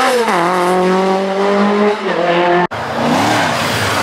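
Group B rally car engine at high revs, its pitch dropping sharply about a third of a second in as the driver lifts or shifts, then holding steady. The sound cuts off abruptly near the end, giving way to noisier engine and road sound.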